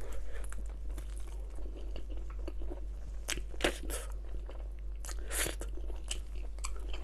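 A person eating close to the microphone: chewing and biting with a scatter of sharp clicks and mouth smacks, the loudest about three and a half and five and a half seconds in.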